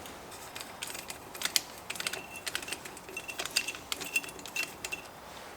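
Small metal Torx driver bits clicking and clinking as they are picked through by hand, a string of irregular light clicks, some with a short ringing tink.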